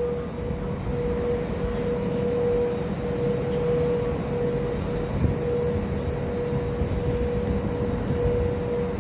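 Train noise: a steady electrical hum held on one pitch over a low rumble.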